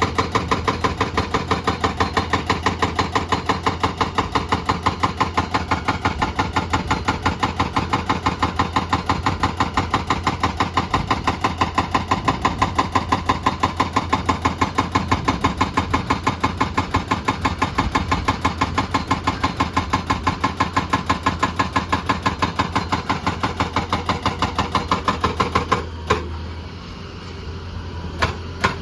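Heavy machine's diesel engine running with a steady, rapid pulsing of about four beats a second. Near the end it drops away for about two seconds, then comes back.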